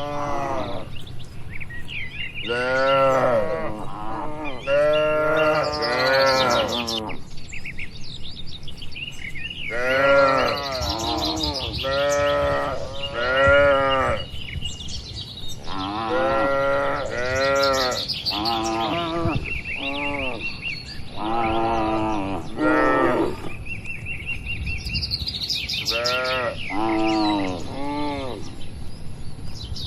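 Cattle mooing again and again, one call after another with short gaps, each call rising and then falling in pitch.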